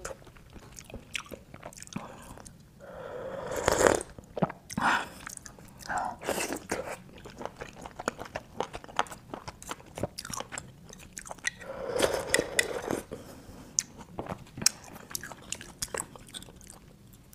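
Close-up mouth sounds of a person eating grilled garlic oysters: wet chewing and lip smacks, with two louder stretches about four seconds in and again around twelve seconds.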